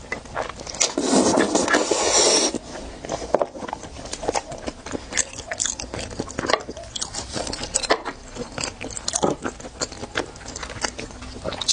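Close-miked eating of raw salmon sashimi: a loud wet sucking as the slice is drawn into the mouth between about one and two and a half seconds in, then soft wet chewing with many small mouth clicks.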